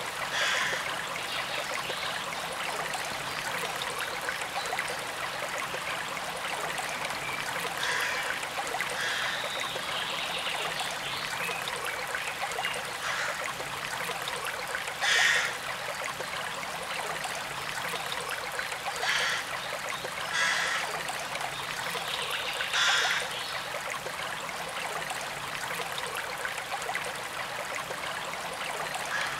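Forest stream running and trickling steadily, with a handful of short bird calls now and then, the loudest about fifteen seconds in.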